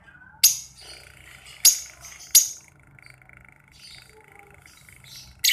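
Pet lovebird giving four short, sharp, high squawks: three in the first two and a half seconds, then one more near the end.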